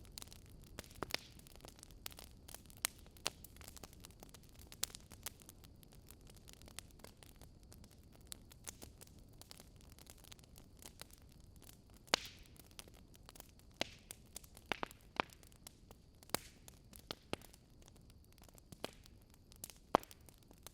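Wood fire crackling: irregular pops and snaps of varied loudness over a faint low hiss, with the sharpest snaps about twelve seconds in and near the end.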